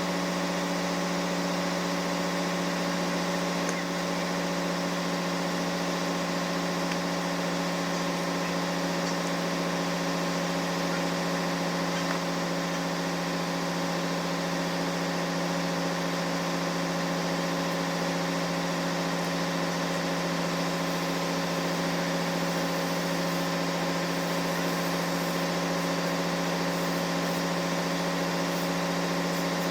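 Steady drone of running diesel machinery in a ship's engine room: a constant hum with several steady tones that holds unchanged throughout.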